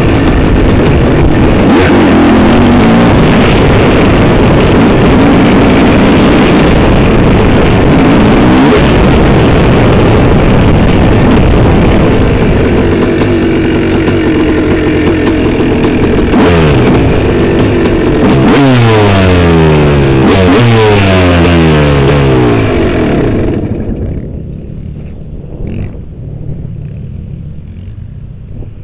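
Dirt bike engine running loud and revving, its pitch sweeping down several times about two-thirds of the way through as the bike comes off the throttle. It drops off sharply to a much quieter sound near the end.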